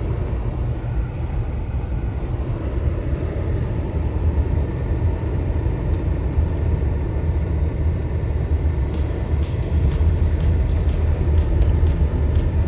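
Car driving, heard from inside the cabin: steady low road and engine rumble, with faint irregular ticks in the second half.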